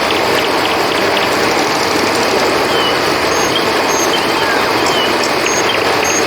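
Steady rush of a flowing river, with a few faint, short, high chirps scattered over it.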